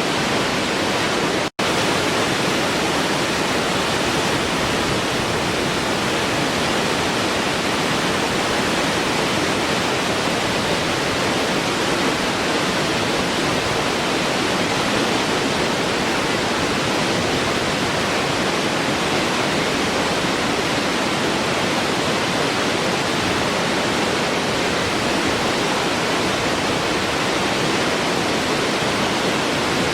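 Waterfall: a steady, even rush of falling water with no change in strength, which cuts out for an instant about a second and a half in.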